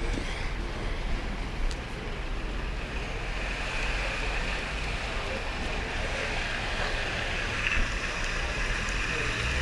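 Wind rumbling on the microphone over a steady hiss of road and tyre noise on a wet road while cycling, the hiss growing a few seconds in.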